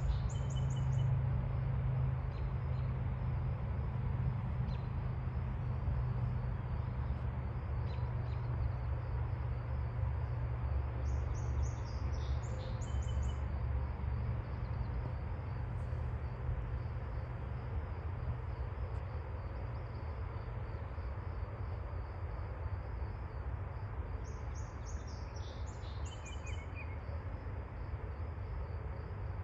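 Outdoor rural sound: a steady high insect trill runs throughout, and a bird gives short chirping phrases three times, about a second in, near the middle and near the end, over a steady low rumble.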